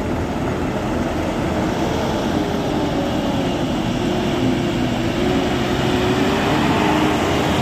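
Heavy diesel truck engine running hard under load, a steady drone that rises slightly in pitch and grows a little louder toward the end.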